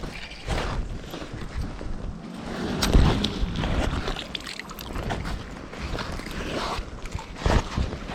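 Wind buffeting the camera microphone as an uneven low rumble, with a few small knocks and rustles from handling or gear.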